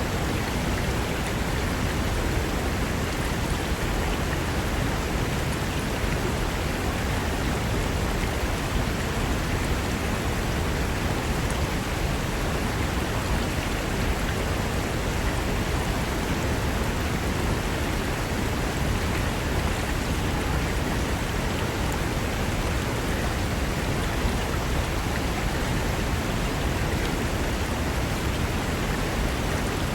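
Fast mountain river rushing over rocks, a steady, even roar of water.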